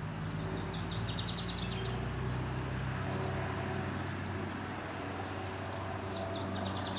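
A songbird sings a quick trill of rapid high notes, near the start and again near the end, over a steady low hum of road traffic.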